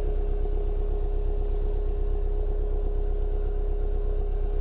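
Mitsubishi Lancer's exhaust at idle, heard close to the tailpipe: a steady, evenly pulsing low rumble with a constant hum. The engine is idling smoothly now that the misfire from rusted coils and plugs has been cured. Two faint ticks come about a second and a half in and near the end.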